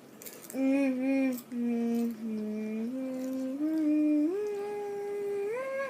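A person humming a wordless tune in long held notes that step mostly upward in pitch, starting about half a second in.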